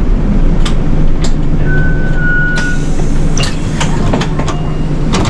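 Inside a moving city bus: steady low rumble of the engine and road with sharp rattles and knocks from the cabin. A brief high steady tone sounds for about a second near two seconds in.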